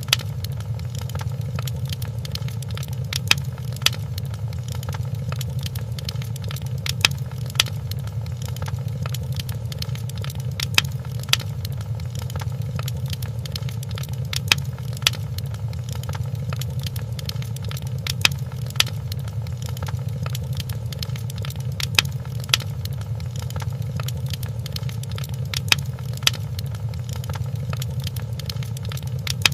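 Fireplace crackling: a steady low rumble of the fire with a scatter of small ticks and sharper pops, the loud pops coming in pairs about every four seconds in an evenly repeating pattern.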